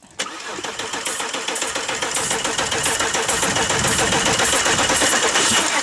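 A starter motor cranks a cold direct-injection diesel engine that has been dosed with ether. It starts about a fifth of a second in and runs on with a steady whine under a regular beat of compression strokes. The engine struggles and knocks as it cranks, typical of too much ether in a DI diesel, which fires too quickly, like a petrol engine with too much spark advance.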